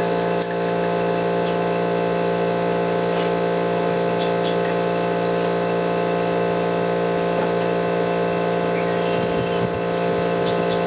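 A machine running at a steady pitch, giving a constant hum rich in overtones, with a few faint clicks over it.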